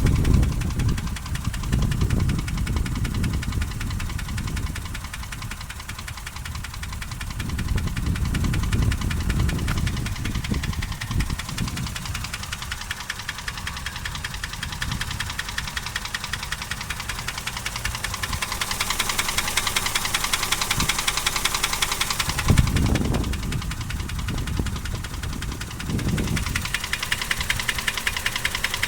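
Toyota 1KR-FE three-cylinder petrol engine idling with a rapid, steady knock. The mechanics who listened to it put the knock down to a worn crankshaft or connecting-rod bearing. The idle is shaky, which the owner blames on poor fuel and on the engine computer not yet having relearned after a reset.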